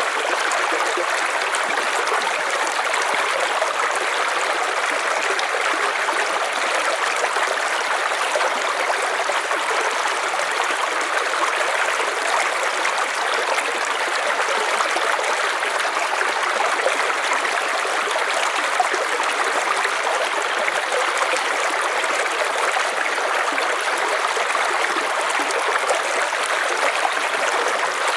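River water flowing over stones, a steady rushing and trickling with no let-up.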